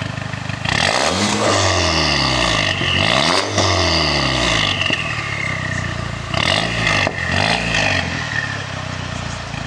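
Audi A4 2.0-litre turbo engine revved through a valved ECS Tuning exhaust. It gives two long revs rising and falling, then two short blips, settling to idle between them.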